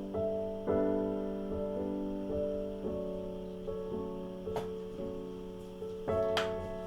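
Background solo piano music, slow chords ringing on, with two light clicks about four and a half and six and a half seconds in.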